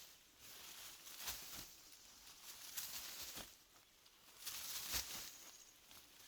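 Faint, irregular rustling and crunching in forest-floor litter, a handful of short strokes a second or two apart.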